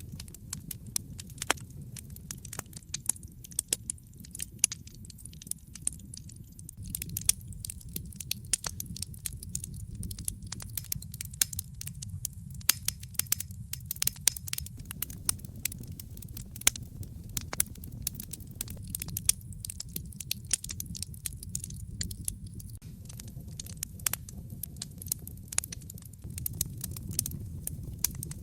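A fire crackling in a fireplace: a steady low rumble of flames with frequent, irregular sharp pops and snaps.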